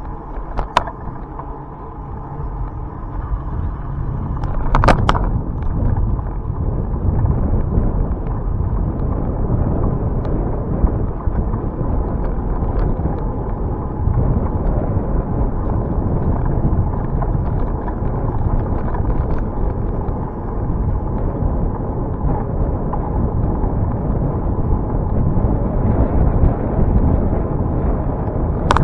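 Wind buffeting the microphone of a camera riding along on a bicycle, a steady low rumble, with a couple of sharp clicks about one and five seconds in.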